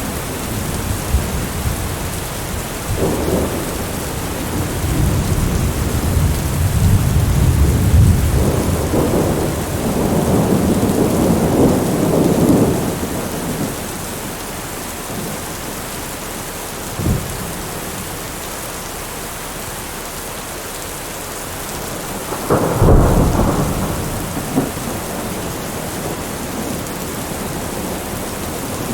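Steady heavy rain with thunder: a long, low rolling rumble builds from a few seconds in to about halfway, a short crack comes a little past the middle, and a sharp thunderclap with a brief rumble, the loudest moment, comes about three quarters of the way through.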